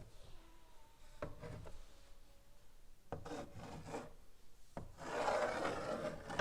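Chalk writing on a blackboard: a few sharp taps as the chalk meets the board, then a longer, louder scratching stroke near the end.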